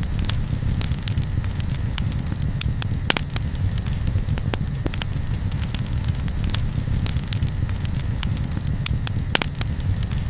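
Campfire crackling and popping, with irregular sharp snaps over a steady low rumble of the flames; two louder pops come about three seconds in and near the end. A short high chirp repeats about every half second behind it.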